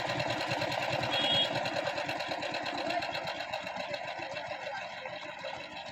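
Power tiller's single-cylinder diesel engine running with a fast, even chugging, easing off slightly toward the end.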